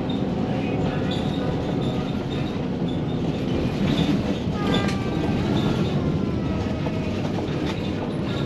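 Inside a moving bus: a steady engine and road rumble, with scattered rattles and short squeaks from the cabin.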